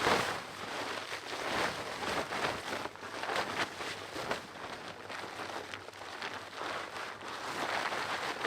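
Snow and ice being cleared off solar panels: a continuous crackly scraping and swishing, with irregular louder strokes.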